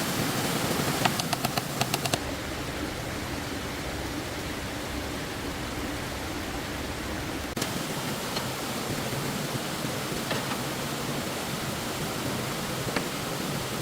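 Steady rush of stream water, with a quick run of sharp clicks or knocks about a second in.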